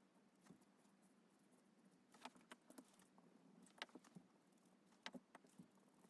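Near silence with faint, scattered clicks and taps of a pen on paper during drawing, a few close together about two seconds in and again near the end.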